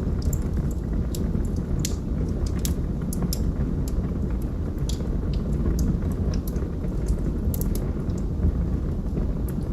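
Log fire crackling: irregular sharp pops and snaps over a steady low rumble of the burning wood.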